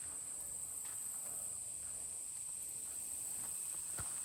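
Insect chorus: crickets making a steady high-pitched drone, with a few faint clicks underneath.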